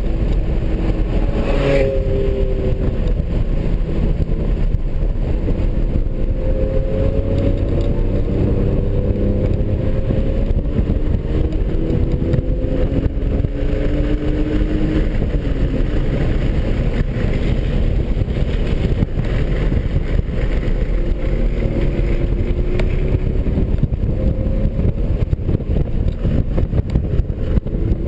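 The 2003 BMW 330i's 3.0-litre inline-six at track pace, heard from inside the cabin. Its pitch climbs again and again and then drops off as the driver works the throttle and gears, over heavy wind and road rumble. There is a sharp click about two seconds in.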